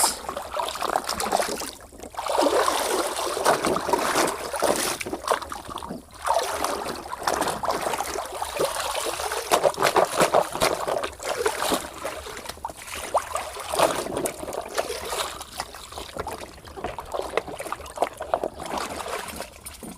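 Water sloshing, trickling and splashing as a muddy toy vehicle is washed by hand, in an irregular stream of wet rubbing and splashes with short pauses.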